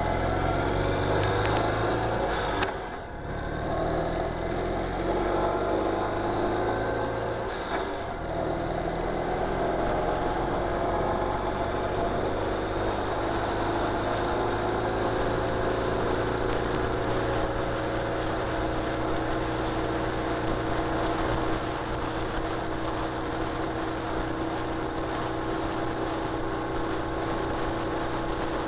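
Ural Retro sidecar motorcycle's air-cooled flat-twin engine running under way, with road and wind noise. The engine note dips briefly about three seconds in and again near eight seconds, then holds steady.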